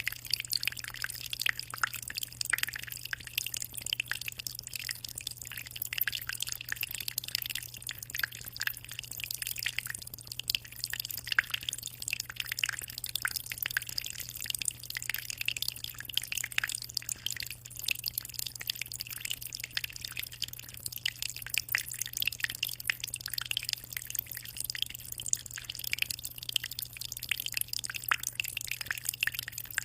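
Water in a 60-liter aquarium trickling and splashing continuously, a dense patter of small drips, over a steady low hum.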